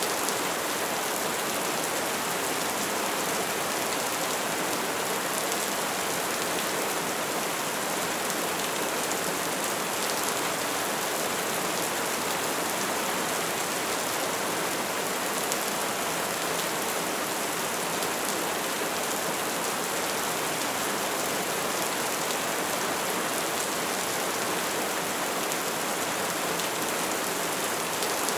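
Steady rain falling on a surface: an even hiss of many drops at a constant level, with no single drops standing out.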